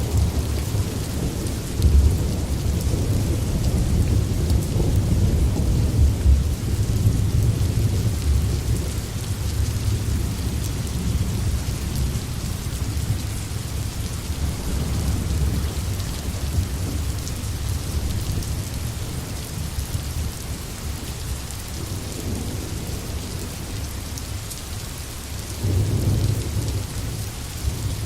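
Steady heavy rain hissing, over a low rolling rumble of distant thunder. The rumble is strongest in the first several seconds, eases off, then swells once more near the end.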